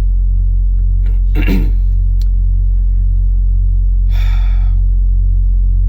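A loud, steady low hum under a pause in speech, with a short vocal sound about a second and a half in and a sharp intake of breath about four seconds in.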